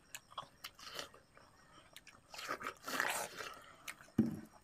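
Watermelon being bitten and chewed: scattered small crunching clicks, a louder, longer stretch of chewing about two and a half to three and a half seconds in, and a brief low-pitched sound near the end.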